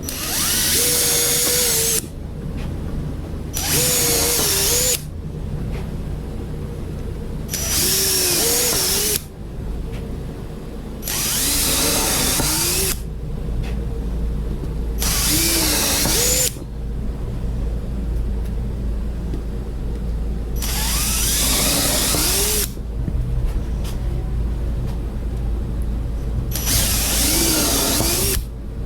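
Electric drill boring with a half-inch paddle bit, run in about seven bursts of one to two seconds with short pauses between them; the motor's pitch sags and recovers as the bit bites. A steady low hum runs underneath.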